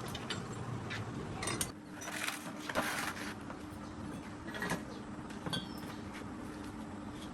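Scattered metallic clicks, knocks and scraping from hand tools and parts being handled during tractor brake work, with a faint steady hum setting in about two seconds in.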